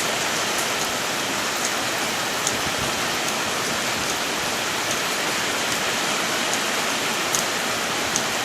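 Heavy rain pouring steadily, with scattered sharp drop ticks in the downpour.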